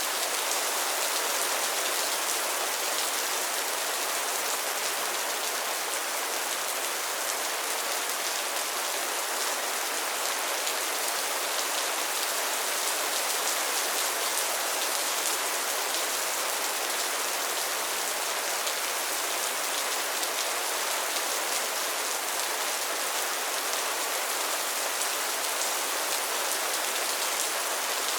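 Steady rain falling on pond water and lily pads: a dense, even patter of raindrops that does not let up.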